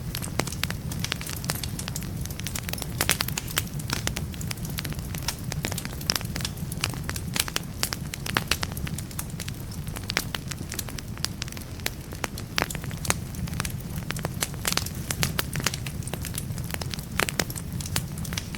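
Wood fire burning in a fireplace: a steady low rumble of flame with dense, irregular crackles and pops from the burning logs.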